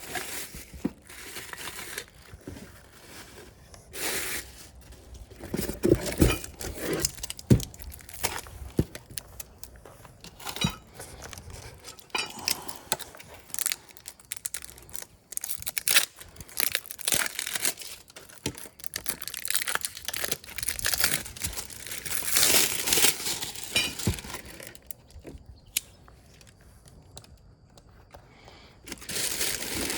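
Packaging being handled: irregular crinkling and tearing rustles with scattered knocks and light clinks.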